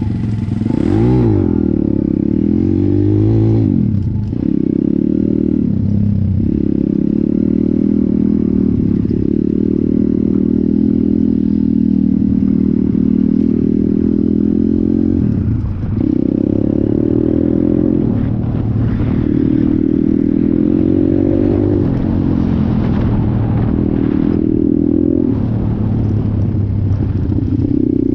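Stomp Thumpstar Dirty S pit bike's 170 cc single-cylinder four-stroke engine running under way. Its note climbs and falls with the throttle in the first few seconds, then holds, dipping briefly several times.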